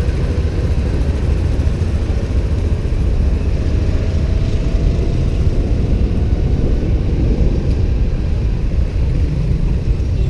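Riding a motorbike through city traffic: steady engine and road noise under heavy low wind rumble on the microphone, with a faint rising engine whine a few seconds in.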